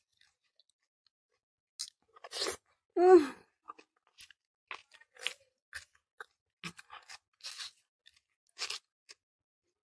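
Close-miked chewing of fried tofu in chili sauce: a string of short, wet mouth clicks and smacks. A brief hummed 'mmm' comes about three seconds in and is the loudest sound, with a shorter one just before it.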